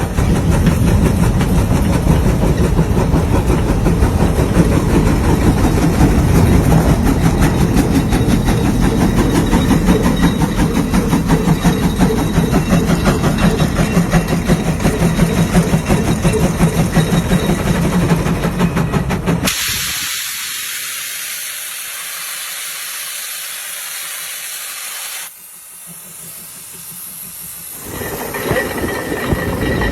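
Steam traction engine running with a fast, steady exhaust beat. About twenty seconds in, the beat stops and a loud steady hiss of escaping steam takes over, fading to a softer hiss. The engine sound picks up again near the end.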